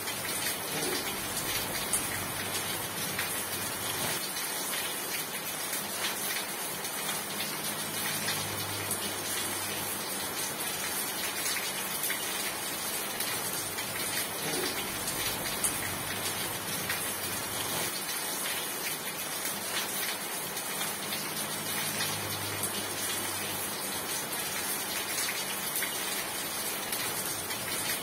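Steady rain falling, an even hiss with scattered drop ticks. A faint low hum rises and fades twice, about a third of the way in and again near the end.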